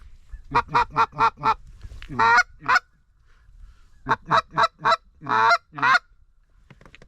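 Duck call blown as a mallard hen call to a circling duck: loud quacks in a cadence of four short quacks followed by two longer, drawn-out ones, the pattern given twice.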